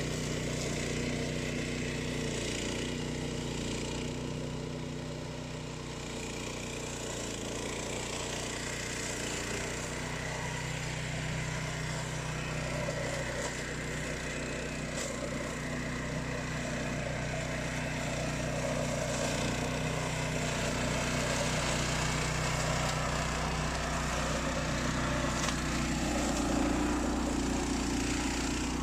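Remote-control flail mower running steadily: an even engine hum with the noise of the flail cutting grass over it, growing somewhat louder in the second half.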